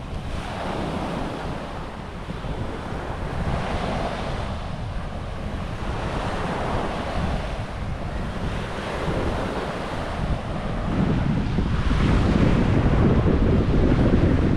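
Small waves washing onto a sandy beach, swelling and receding every couple of seconds, with wind buffeting the microphone; the wind rumble grows louder near the end.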